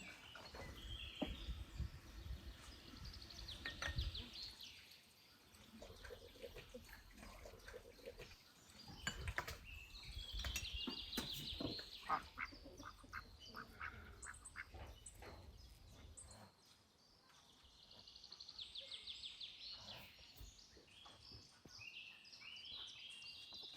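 Birds calling outdoors in three bouts of fast trilling calls, among scattered light clicks and knocks.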